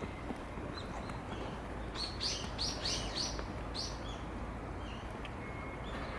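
A small bird chirping: a quick run of about six high, sharp chirps about two seconds in, with a few fainter chirps before and after over a steady low outdoor rumble.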